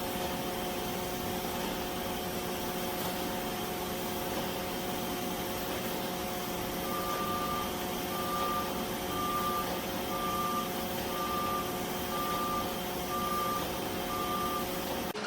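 Robot vacuum running with a steady motor and fan hum. About halfway through it starts giving a series of short, evenly spaced beeps, roughly one a second, that stop just before the end.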